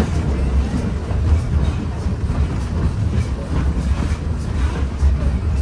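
Passenger carriage of a steam-hauled heritage train rolling along the track, a steady low rumble heard from inside the carriage.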